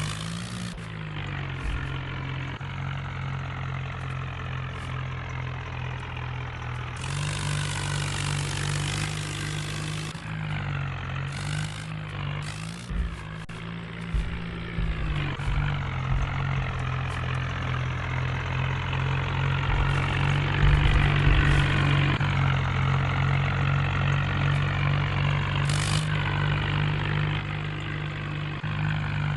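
HMT tractor diesel engine running, its speed shifting up and down a few times and getting louder for a couple of seconds near two-thirds of the way through. A hiss lasting about three seconds comes in about seven seconds in.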